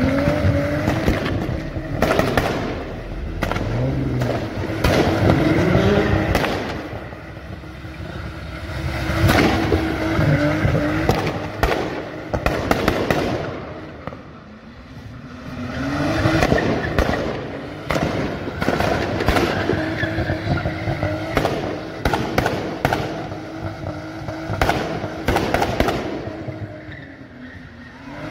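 Nissan Skyline R34's engine revving hard and bouncing on a Bee*R rev limiter, with rapid cracks and bangs from the exhaust, while the rear tyres spin in burnouts and doughnuts. The noise eases and builds again several times as the car turns.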